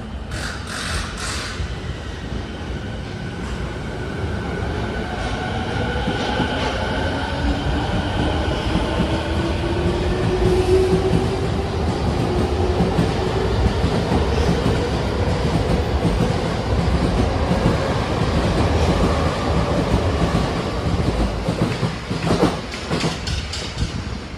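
TWR 70-000 series electric train pulling away, its traction motor whine climbing steadily in pitch as it accelerates over a rumble and clatter of wheels on rail, growing louder as the cars go by. A few sharp knocks come near the end.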